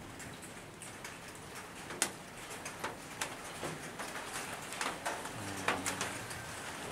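Rain beginning to fall: a steady hiss with scattered drops ticking sharply on nearby surfaces.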